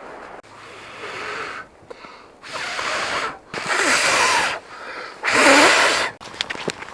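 A person breathing out hard four times in short, hissy bursts that grow louder.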